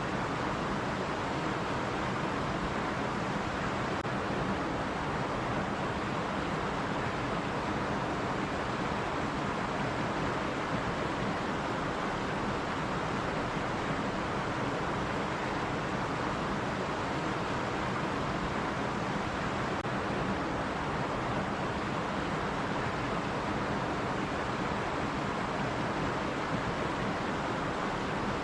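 Stream water running steadily over rocks, an even rushing that does not change.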